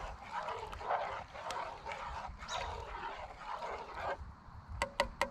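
Spoon stirring a rice mix and water in a pot, a run of irregular scraping swishes. Near the end, several sharp taps with a short metallic ring.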